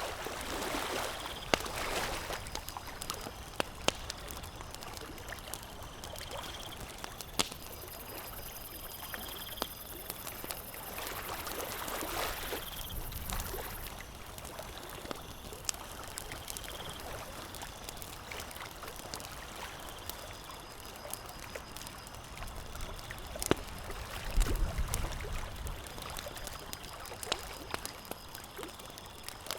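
Campfire crackling with scattered sharp pops over a steady wash of water. A faint high whine comes and goes, and a brief low rumble comes near the end.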